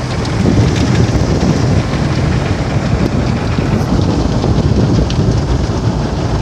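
Automatic car wash heard from inside the car: water spraying onto the body and windows in a steady rushing noise, with a heavy low rumble.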